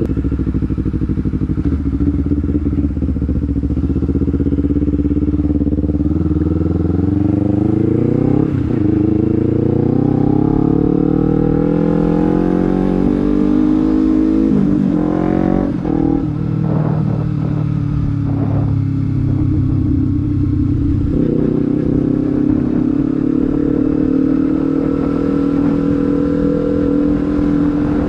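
Honda CBR250RR's parallel-twin engine running through a Proliner slip-on exhaust while riding. The exhaust note climbs in pitch and drops sharply at gear changes several times, then holds fairly steady near the end.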